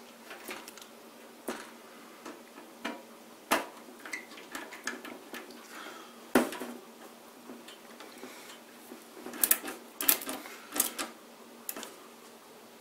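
Screwdriver and small machine screws clicking and tapping on the metal of a PC case while a motherboard is screwed down to its standoffs. The clicks come at irregular intervals, the sharpest about six seconds in and a quick run of them near ten seconds.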